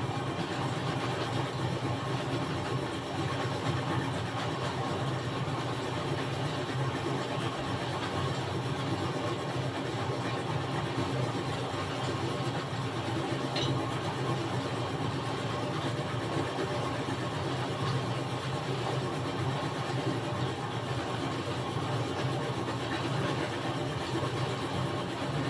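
A workshop machine's motor running steadily with an even hum.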